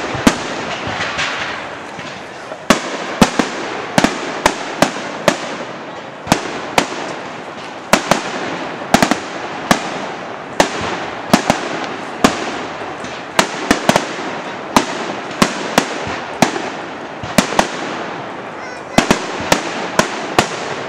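Fireworks display: a rapid, irregular string of sharp bangs, roughly two a second, over steady crowd noise.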